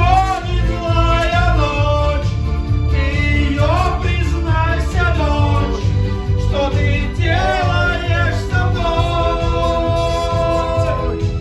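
A man singing a pop song into a microphone over backing music with a steady bass beat; long held notes near the end.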